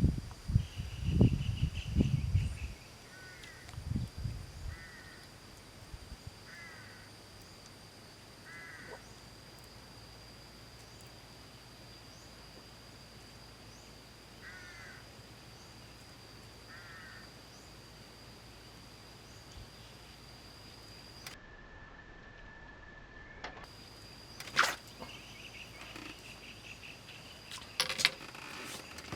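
Outdoor ambience: a steady high-pitched insect drone with a bird giving short calls every few seconds. There are low thumps in the first few seconds and two sharp knocks near the end.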